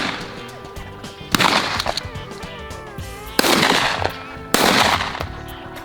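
Four shotgun shots over background music, each a sudden blast that dies away over about half a second: one right at the start, then three more spread through the next five seconds.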